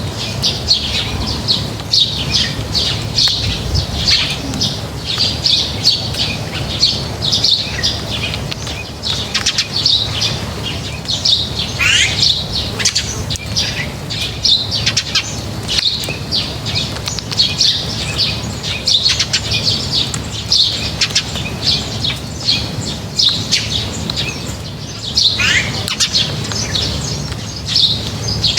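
A flock of small birds at a feeding spot chirping continuously in dense, overlapping short notes. Twice, about 12 s and 25 s in, a single call sweeps sharply down in pitch.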